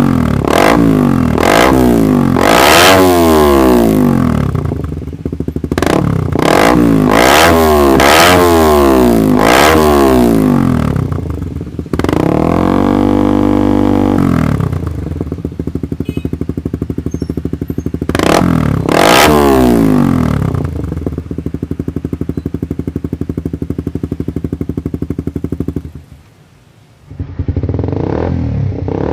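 Suzuki GSX-R150's single-cylinder engine revved at standstill through an aftermarket exhaust: a series of quick throttle blips, each rising and falling in pitch, one longer held rev in the middle, then settling to a steadier idle. Near the end the sound drops out briefly and another recording starts with more revs.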